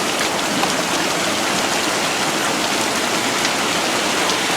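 Heavy monsoon rain falling steadily, a dense even hiss with the patter of drops striking surfaces.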